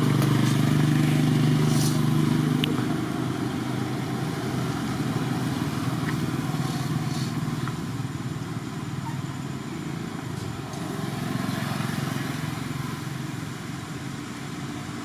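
A motor vehicle engine running, loudest in the first few seconds, then fading under a steady low hum.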